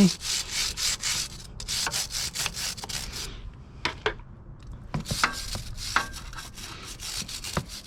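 Stiff-bristled brush scrubbing a motorcycle chain in brisk back-and-forth strokes, about three a second, with a pause of roughly a second partway through.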